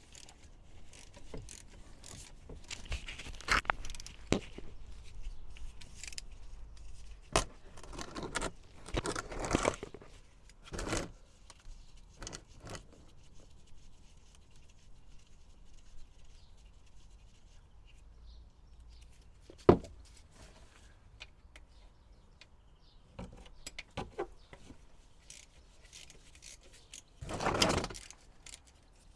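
Metal hand tools clinking, scraping and rattling in irregular bursts as the gearbox's 17 mm hex filler and drain plugs are undone. There is a single sharp click about two-thirds of the way through and a longer rattle near the end.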